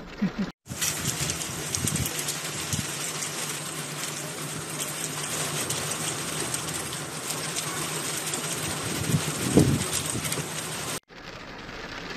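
Heavy rain pouring down as a steady, dense hiss, with a brief louder swell a little before ten seconds in. It cuts off abruptly near the end and gives way to a quieter rain sound.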